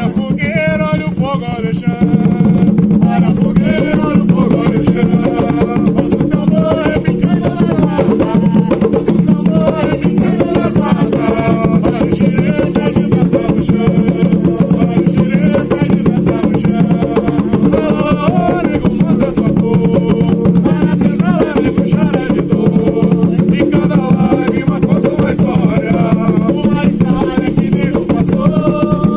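An Umbanda ponto for the Pretos Velhos: voices singing the chant over atabaque hand drums keeping a steady rhythm, the drumming filling in fully about two seconds in.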